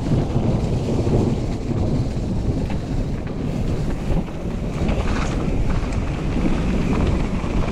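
Wind buffeting an action camera's microphone while a mountain bike is ridden, a loud steady low rumble with extra hiss from about five seconds in.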